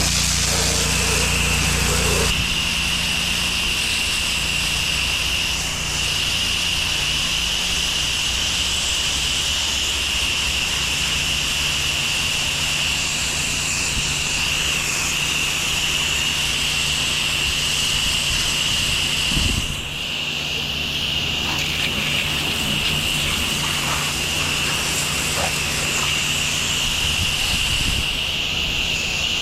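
Gas pressure washer running steadily, its engine humming under the constant hiss of the high-pressure water spray. The engine note shifts about two seconds in, and the sound dips briefly near the twenty-second mark.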